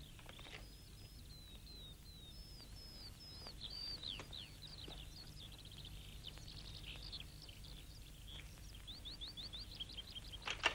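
Faint bird chirping: runs of short, high, quickly repeated notes, over a steady low hum.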